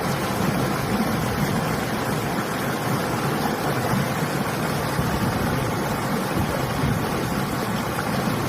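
Steady rushing of river water, mixed with wind.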